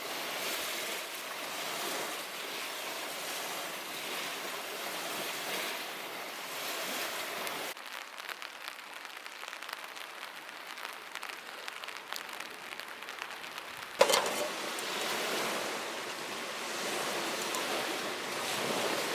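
Steady rain falling. It drops suddenly to a quieter patter with scattered drop ticks a little under halfway, then comes back louder all at once near the end.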